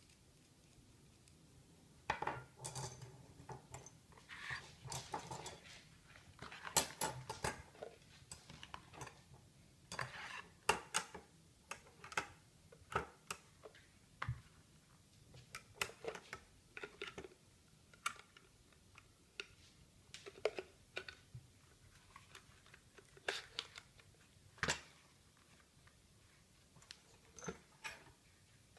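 Irregular light metallic clinks and clanks, as pieces of a homemade fire-pit grill are handled and set against one another, with short pauses between.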